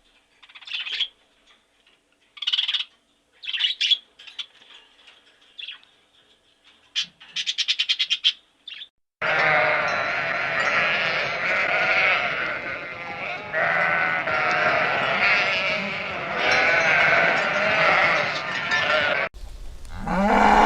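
A flock of sheep bleating: scattered single calls for the first several seconds, then from about nine seconds a dense chorus of many animals calling at once, cut off shortly before the end.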